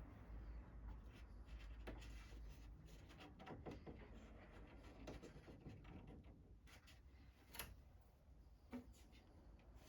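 Faint scattered taps, clicks and rubbing from hand work, with two sharper clicks in the second half.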